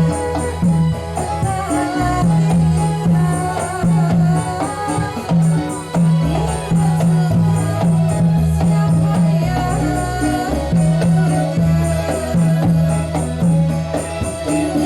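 Traditional Javanese ndolalak music: a steady beat of low drums with regular jingling and a melody line over it.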